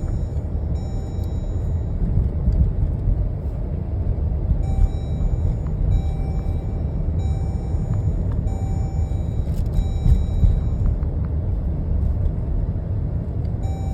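Car interior road noise while driving, a steady low rumble. A faint short beep repeats about once a second.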